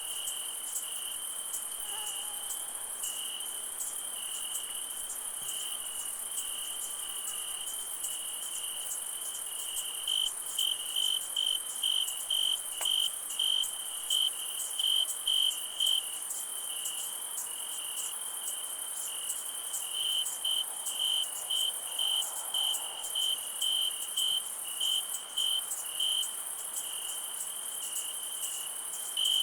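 Crickets chirping at night: one cricket gives loud, regular high chirps, about two a second, in two long runs through the middle and later part, over a steady, higher-pitched insect chorus.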